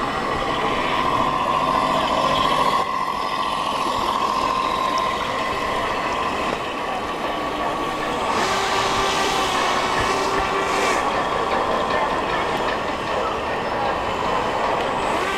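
Model boat motors running with a steady high whine. A second, lower tone joins for a few seconds just past the middle.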